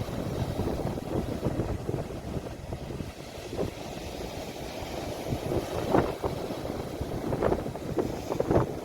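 Sea waves washing on the shore, with wind buffeting a phone's microphone into a low, gusty rumble. A few brief louder surges come near the end.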